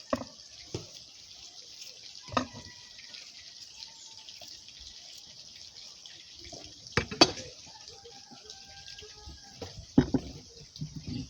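Scattered sharp knocks and clicks with small watery drips and splashes from food being handled and cut: single knocks at first, then a cluster about seven seconds in and again near the end. A steady high hiss runs underneath.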